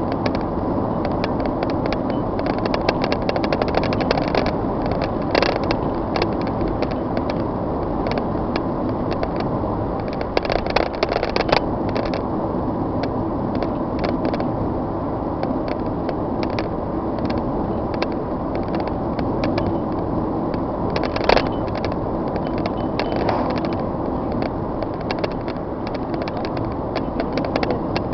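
Steady rumble of a moving vehicle, with many small rattles and clicks.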